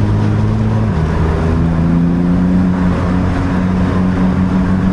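A BMW 328Ci's 2.8-litre straight-six engine running under way, heard from inside the car. Its note steps down in pitch about a second in, then holds steady.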